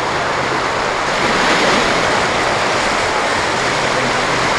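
Steady, loud rushing noise with a faint, even low hum underneath.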